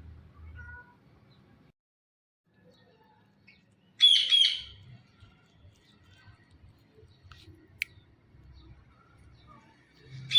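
Blue Indian ringneck parakeet giving a short, loud burst of two or three rapid high calls about four seconds in, and another burst right at the end. A single sharp click comes near eight seconds.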